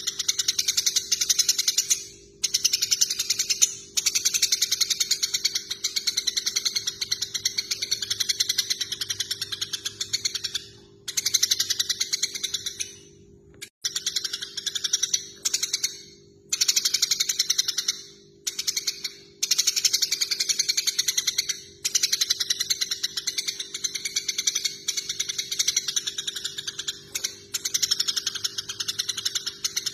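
Eurasian tree sparrows giving rapid, rattling chatter calls of the kind heard when they fight, in bouts of a few seconds broken by short pauses, over a steady low hum.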